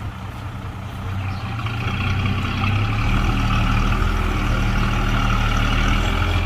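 Heavy diesel engine of earthmoving machinery running, building up over the first few seconds and then running steadily loud.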